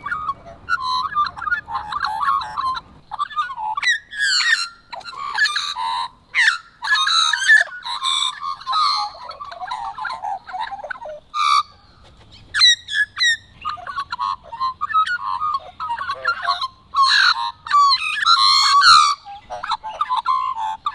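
Australian magpies singing: rich warbling and fluting phrases with quick pitch slides, coming in bursts separated by short pauses.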